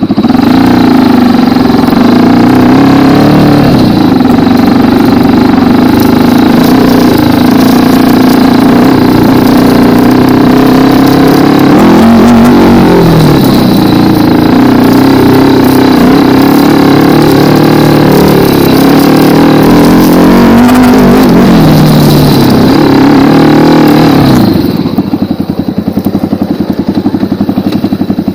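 Racer 250 K2 dirt bike's 172FMM single-cylinder four-stroke engine, loud, revving up and down with the throttle as the bike is ridden. About 25 seconds in it drops back to a lower, steadier note near idle.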